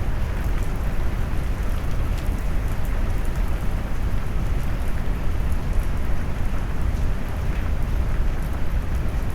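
Steady heavy rain mixed with deep brown noise, the sound weighted toward a low rumble with a soft patter of drops above it.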